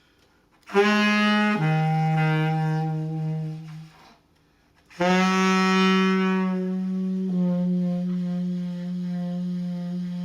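Saxophone playing slow, sustained low notes in two phrases. Each phrase is a long held note that steps down to a lower held note, with a pause of about a second between the phrases.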